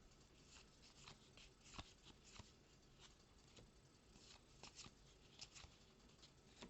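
Faint, irregular soft ticks and slides of Magic: The Gathering trading cards being handled and flipped through one by one.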